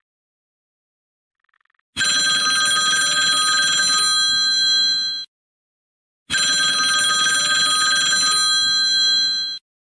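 Telephone bell ringing: two long rings of about three seconds each, with a pause of about a second between them.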